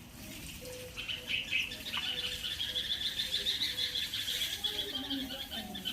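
Birds chirping: a fast run of high, rapidly repeated chirps beginning about a second in.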